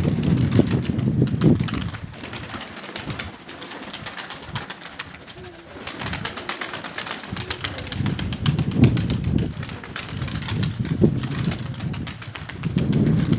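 Domestic pigeons cooing, with gusts of wind buffeting the microphone as a low rumble during the first couple of seconds, again around the middle and near the end.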